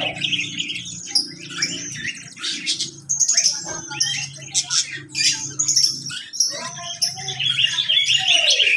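A mixed aviary of small cage birds, lovebirds among them, chirping and twittering in a dense, overlapping chorus of shrill high calls, with a few lower sliding calls near the end.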